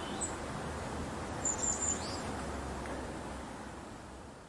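Outdoor ambience: a steady background hiss with a few short, high bird chirps, fading out near the end.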